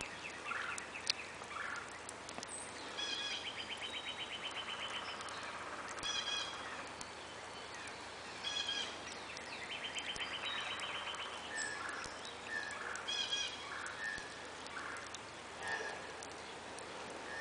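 Birds singing: two long, rapid trills and short, repeated whistled notes.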